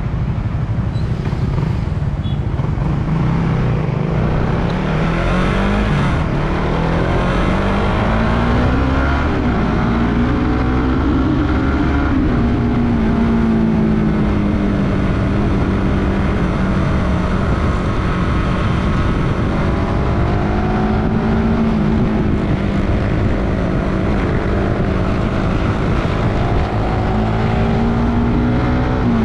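Suzuki Raider 150 Fi's single-cylinder four-stroke engine running under way, its pitch rising and falling as the throttle opens and closes, with a rise about eleven seconds in and another near the end. A heavy low rumble of wind on the microphone runs under it.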